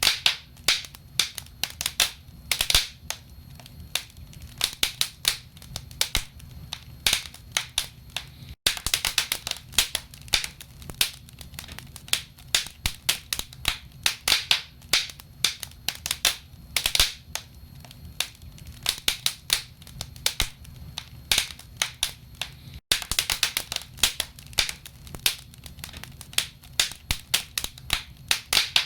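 Burning firewood in a fireplace crackling, with dense, irregular sharp pops and snaps over a low, steady rumble. The sound cuts out for an instant twice.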